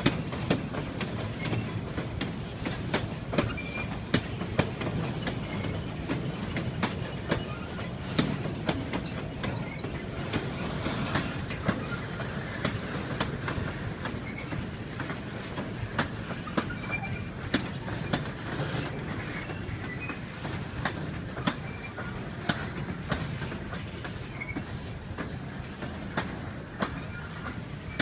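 Train rolling along the rails with a steady low rumble, many irregular clacks of wheels over rail joints, and short high-pitched wheel squeals.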